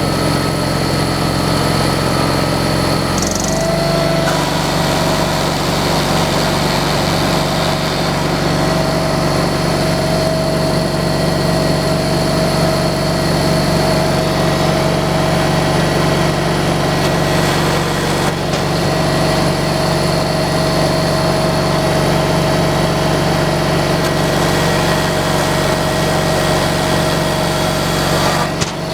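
Portable sawmill's engine running steadily, its note shifting about three and a half seconds in, after which a steady whine sits above the engine hum.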